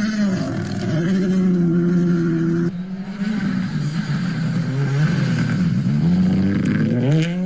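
Rally car engine revving hard under acceleration, its pitch dipping and climbing again with gear changes and lifts off the throttle. The sound changes abruptly about three seconds in, and the revs rise steeply near the end.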